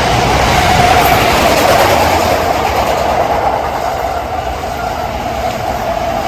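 JR Tokaido Line train passing on the track: a steady rush of wheels on rail, loudest about a second in and slowly easing off.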